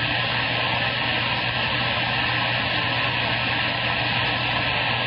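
Steady rush of static with a low hum from a CB radio's speaker, heard between transmissions.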